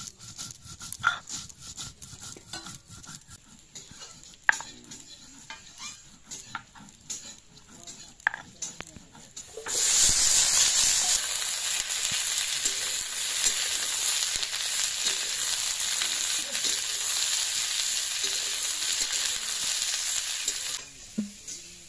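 Hand-held grinding stone rolled and rocked on a flat stone slab (sil-batta) to grind spices, giving scattered scrapes and knocks. About ten seconds in, a sudden loud sizzle as chopped data shak stems go into hot oil with onions and green chillies in a karahi, frying steadily while they are stirred. The sizzle stops suddenly near the end.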